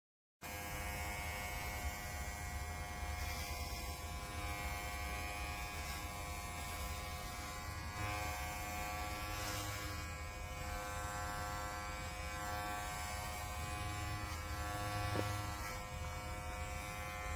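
Cordless electric pet hair trimmer running with a steady electric buzz, its tone shifting slightly now and then. It starts abruptly about half a second in.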